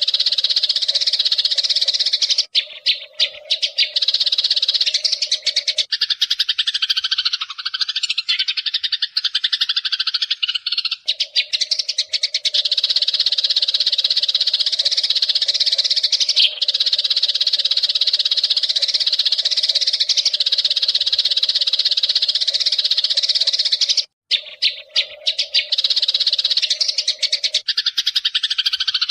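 Eurasian tree sparrows chirping in a dense, continuous chatter, broken by short pauses a few seconds in and again near the end.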